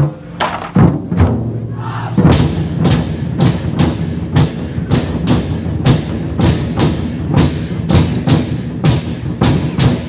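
Vietnamese lion dance percussion: a big drum beaten in a fast, driving pattern with cymbal clashes ringing over it. The playing is sparser for the first couple of seconds, then settles into a steady beat of about two to three clashes a second.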